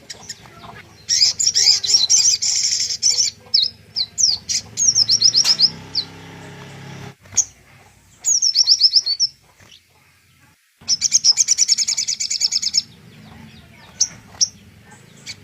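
A songbird singing: three bursts of rapid, high trills about two seconds each, with short sharp whistled notes between them, over a low steady background hum.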